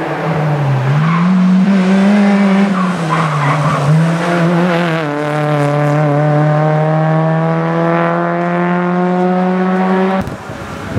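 Small hatchback's engine revving hard through a slalom course. The pitch dips and rises through the first gates, then climbs steadily under full throttle in one gear, with some tyre squeal in the early turns. The sound cuts off suddenly about ten seconds in.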